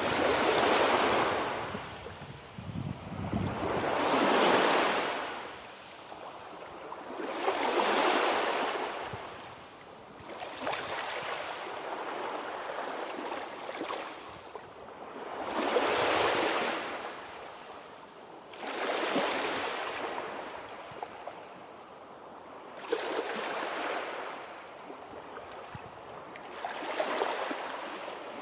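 Sea waves washing onto a shore, each surge swelling and ebbing away, one about every three to four seconds.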